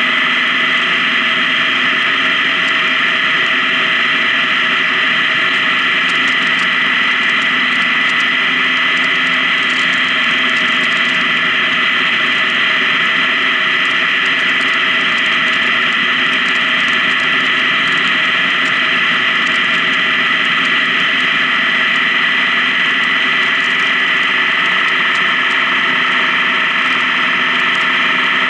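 Honda Gold Wing touring motorcycle cruising at a steady highway speed: an even, unchanging engine drone mixed with road and wind noise.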